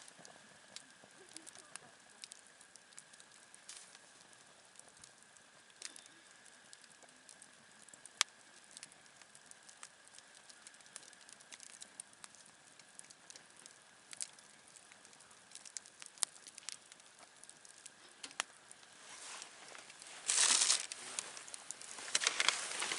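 Wood campfire crackling, with scattered sharp pops. Near the end comes a louder rustling and crinkling, like something being handled close by.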